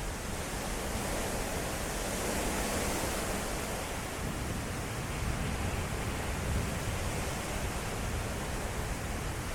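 Strong derecho wind gusting: a steady rush of noise with a low fluttering rumble, swelling a little about two to three seconds in.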